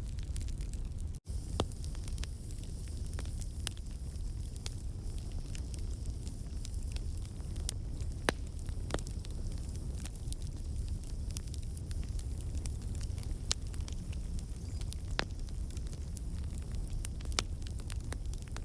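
Wood campfire burning, with a steady low rumble and scattered sharp crackles and pops from the burning logs. The sound drops out for a split second about a second in.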